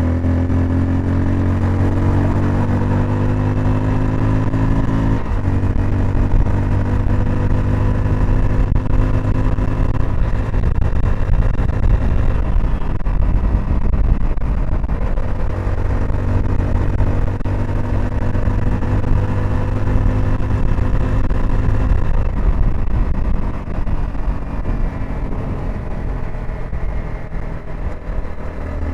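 Honda CBR 250R's single-cylinder four-stroke engine and exhaust on the move, pulling at steady revs with the pitch climbing slightly at first. There is a brief break about five seconds in, and the engine eases off and runs quieter near the end.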